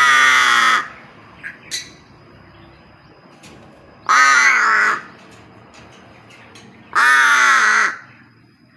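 Pet crow giving three loud, harsh caws, each nearly a second long and a few seconds apart.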